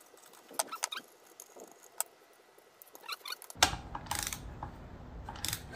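Hand tools clicking and clinking on metal engine parts while bolts on a cylinder head are torqued: scattered light clicks, then from about halfway a louder stretch of knocks and metal clinks with some rumble of handling.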